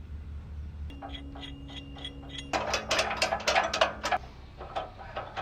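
Ratchet clicking through a run of turns: slow, even clicks at first, then a faster, louder spell of clicking from about two and a half seconds in, over a steady low hum.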